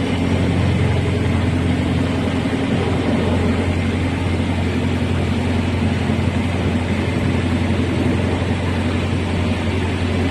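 Tour boat's engine running steadily at an even speed, with a steady hiss over it.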